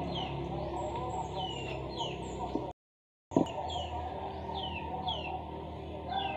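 Birds chirping in the background, a steady run of short, quick, falling chirps repeating two or three times a second. The sound drops out to silence for about half a second near the middle, then resumes.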